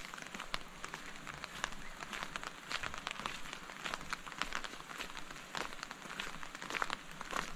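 Steady rain falling, with many irregular close raindrop taps standing out over the even hiss.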